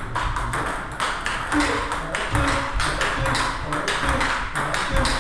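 Table tennis rally: a celluloid/plastic ball struck by rubber-faced bats and bouncing on the table, sharp clicks several times a second in quick alternation, as drives are hit back and forth.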